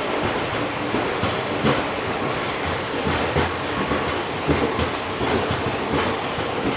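Indian Railways express train running along a station platform, heard from aboard the coach: a steady rumble of wheels on rails with irregular clicks and clacks over the rail joints.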